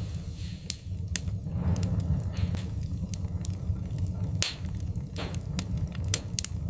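Wood fire in a fireplace crackling: sharp pops every second or so over a steady low rumble.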